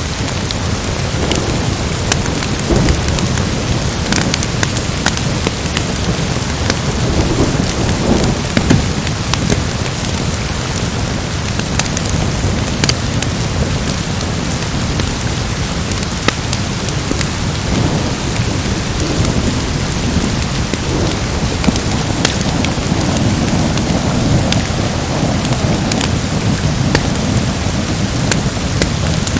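Steady heavy rain of a thunderstorm, with low rumbling swells that come and go and scattered sharp crackles throughout.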